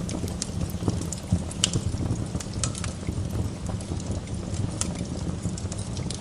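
Wood fire burning in a fireplace: irregular sharp crackles and pops over a steady low rush of the flames.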